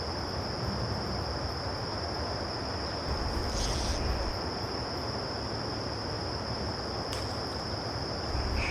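Insects singing in one steady, unbroken high-pitched drone over the even rush of flowing creek water, with a brief splash about three and a half seconds in.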